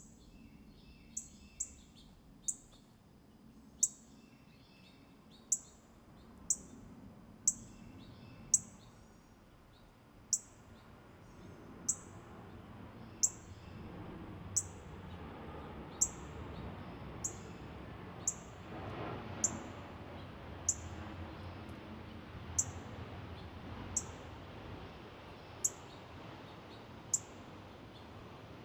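A bird giving sharp, very high chip calls, each a quick downward slur, repeated about every one to two seconds, with fainter, softer notes among them in the first few seconds. Underneath is a steady low background noise that grows louder about ten seconds in.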